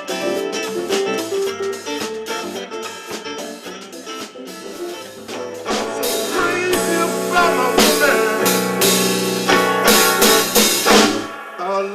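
Live blues band playing, with electric guitar and drum kit, building to a loud, dense finish that stops abruptly near the end.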